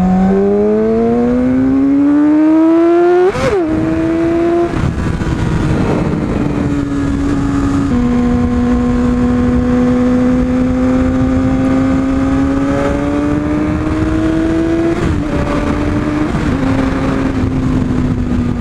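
Yamaha R6's inline-four engine riding through the gears: its pitch climbs, then drops sharply at each upshift, several times over. There is a brief sharp rev spike about three seconds in.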